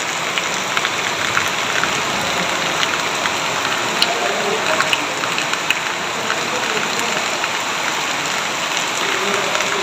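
Heavy rain falling steadily, a dense even hiss with individual drops ticking sharply throughout.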